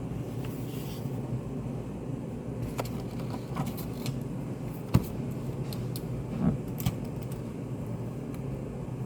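Study cafe room ambience: a steady low ventilation hum with scattered small clicks and taps, a sharp knock about five seconds in, and a duller thump soon after.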